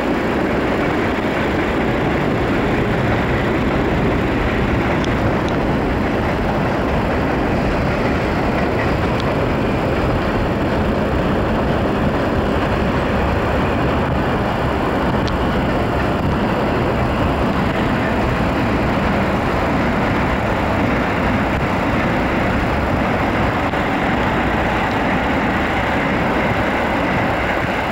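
Electric commuter trains running on an elevated track, a steady loud rumble and rush with no breaks.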